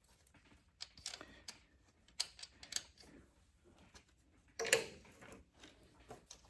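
Light metallic clicks and taps of bolts and hand tools being worked while fitting a tractor's injection pump, with one louder clunk about two-thirds of the way through.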